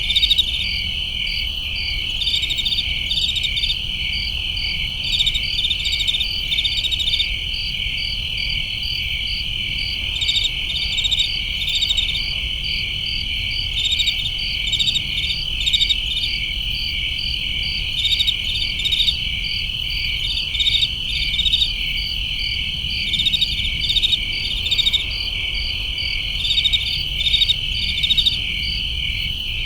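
Night chorus of crickets: a steady high trill with clusters of short pulsed chirps repeating over it, and a faint low rumble underneath.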